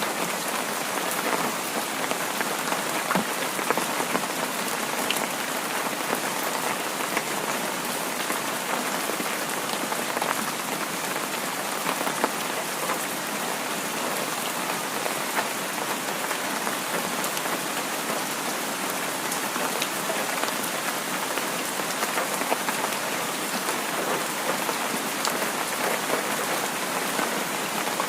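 Heavy rain falling steadily, a dense even hiss with the patter of many individual drops ticking through it.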